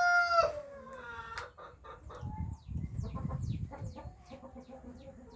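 A rooster crowing, the loud held note of its crow ending about half a second in. After it come faint high chirps that fall in pitch, repeated every fraction of a second, with a low rumble in the middle.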